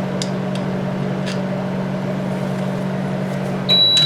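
A microwave oven runs with a steady low hum that cuts off near the end, followed at once by a high beep that marks the end of its cycle. A few faint clicks sound along with it.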